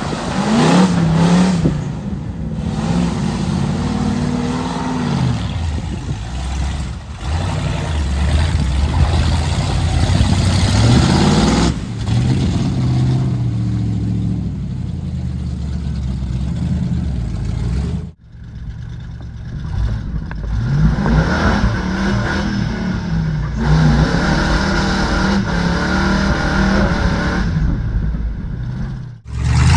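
Old Ford mud truck's engine revving up and down over and over as it is driven, the pitch climbing and dropping every few seconds, with two sudden breaks where the sound cuts off and starts again.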